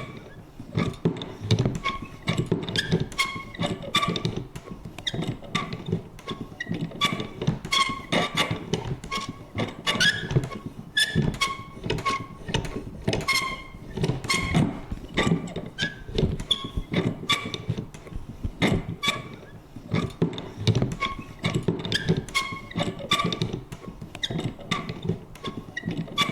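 Vintage paper punch working over and over: quick, irregular mechanical clunks and clicks, several a second, mixed with short creaks and squeaks.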